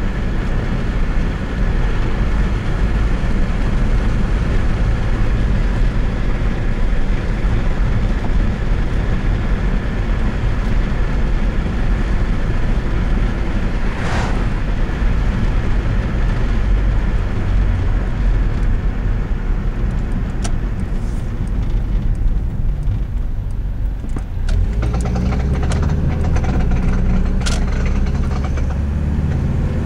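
A 1998 Subaru Legacy driving through a turn, with steady road and engine noise. Scattered sharp clicks come in the second half, and a steadier low hum takes over in the last few seconds. This is the noise the owner hears when turning and cannot identify.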